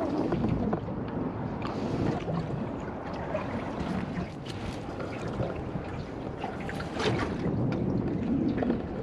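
Wind buffeting the microphone over a steady rush of river water around a boat, with a few light knocks.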